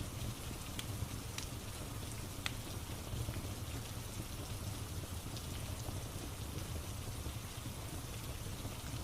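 Steady rain falling, with a few sharp, scattered crackles and pops from a wood fire in a fireplace.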